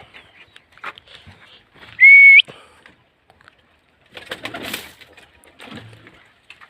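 Domestic pigeons at a rooftop loft. About two seconds in there is a short, loud, pure whistle that holds steady, then rises sharply at its end. A couple of seconds later comes a burst of rustling noise.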